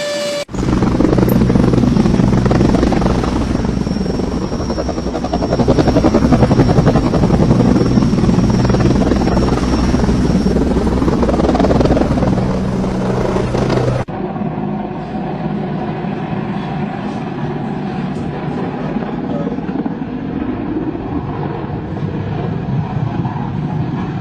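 Helicopter main rotor chopping over the turbine's steady drone, close and loud. About 14 seconds in it cuts abruptly to a quieter, duller recording of a helicopter running.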